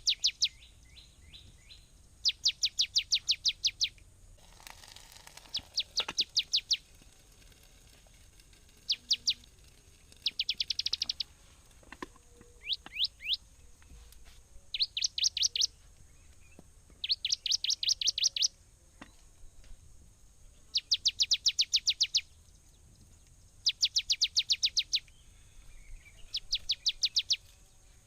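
A bird calling in repeated bursts of rapid, sharp high notes, each burst about a second long and coming every two to three seconds. A faint, steady high hiss sits behind it.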